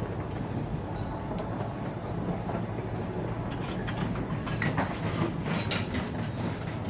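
Steady low vehicle rumble, with a few short clinks and clicks about two-thirds of the way through.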